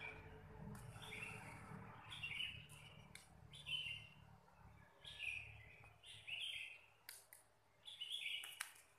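A bird chirping: short high chirps about once a second, with a few faint clicks in between.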